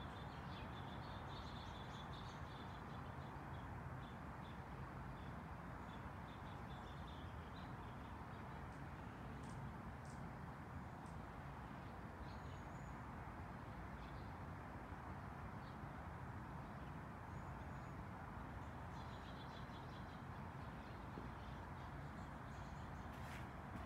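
Small backyard birds chirping faintly on and off, in short high chirps that bunch up at the start and again near the end, over a steady low background rumble.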